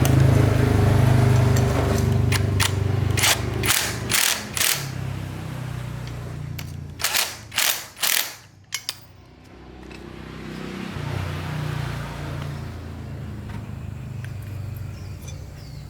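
A small engine running with a steady low hum, broken by two groups of sharp cracks a few seconds in. The engine sound drops away around the middle, then comes back more quietly.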